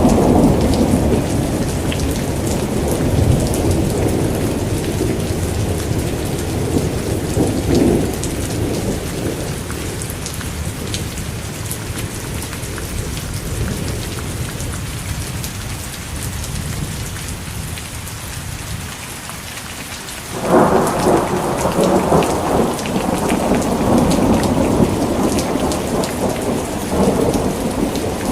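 Steady heavy rain with rolling thunder. A long rumble slowly dies away, and about twenty seconds in a new peal breaks in suddenly and rolls on loudly.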